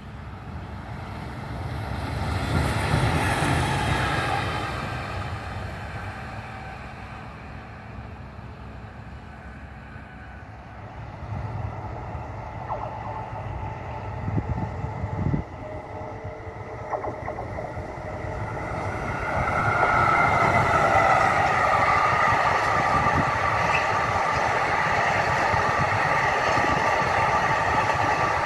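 A Bombardier TRAXX class 185 electric locomotive running light passes by, swelling and fading over the first few seconds. From about two-thirds of the way in, an intermodal freight train hauled by an ÖBB class 1293 Siemens Vectron rolls past close by: the wagons' wheels rumble steadily on the rails, with a steady high whine over them.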